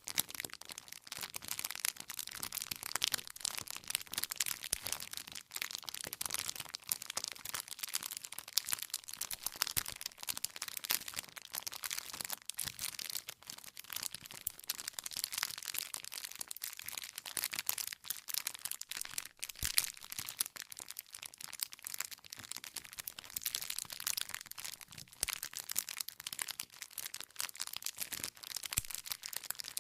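Wood campfire crackling: a dense, unbroken stream of small snaps from the burning firewood, with an occasional louder pop.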